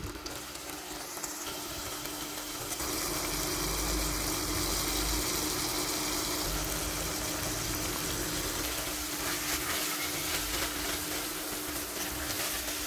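Chicken breast strips sizzling in hot oil in an enamelled cast-iron pot, the hiss building over the first few seconds and then holding steady, with a steady hum underneath.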